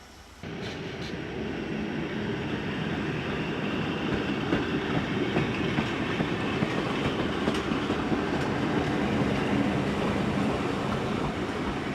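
A train running on rails, wheel and rail noise with faint clicks, starting abruptly and growing louder over the first few seconds.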